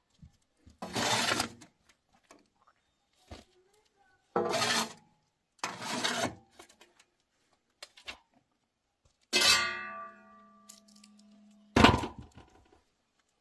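Loud clattering of metal objects, knocked and shifted about five times; one blow about two-thirds of the way through leaves a metallic ring that fades over about two seconds.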